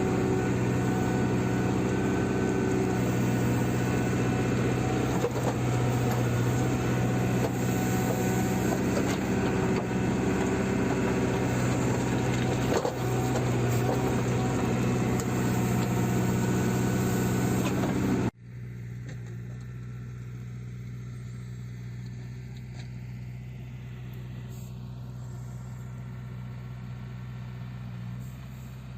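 Diesel engine of a JCB 3CX backhoe loader running steadily at work. About 18 seconds in, the sound cuts abruptly to a quieter, duller engine sound that carries on steadily.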